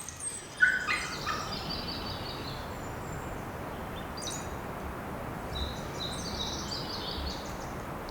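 Wild birds chirping in quick runs of short high calls, one burst about half a second in and another in the second half, over a steady soft background hiss of outdoor ambience.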